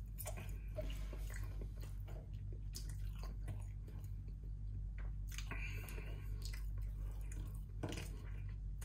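A person chewing and biting chicken close to the microphone, with irregular short mouth clicks, over a steady low hum.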